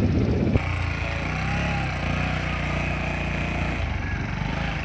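Motor vehicle engine running steadily at low revs, with a steady low hum throughout.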